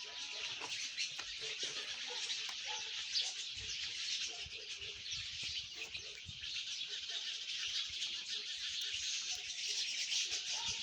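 Many small birds chirping together in a dense, continuous chorus.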